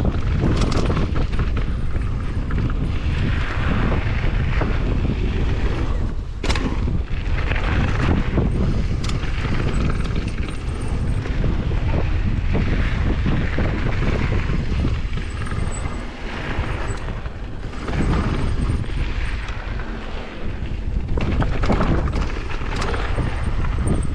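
Wind buffeting the microphone: a loud, uneven rumble that swells and eases, with a few sharp knocks.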